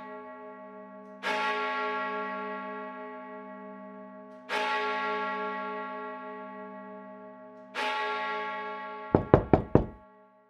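A deep bell tolling slowly, three strokes a little over three seconds apart, each ringing on and fading. Near the end come four quick, loud knocks on a panelled wooden door.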